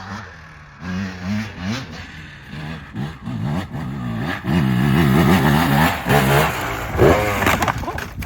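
Dirt bike engine revving hard and unevenly, the pitch rising and falling with the throttle and growing louder about halfway through.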